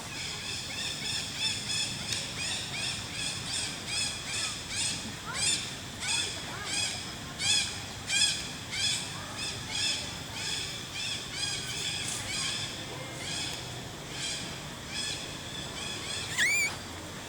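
A long series of short, high-pitched animal calls, each one rising and falling, at about one and a half a second, ending with a louder upward-sweeping call.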